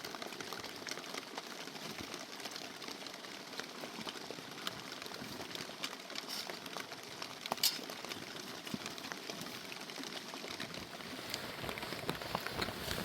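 Steady rain falling, an even patter with scattered drop ticks and one sharper tick about halfway through.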